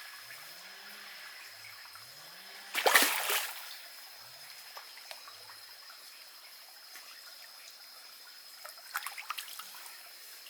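Water trickling and splashing, with one louder splash about three seconds in and a few small splashes near the end, over a steady faint high-pitched whine.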